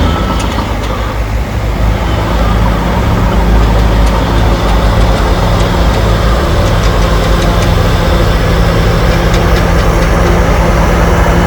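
Heavy diesel engine of earthmoving equipment running steadily, with faint high ticking in the second half.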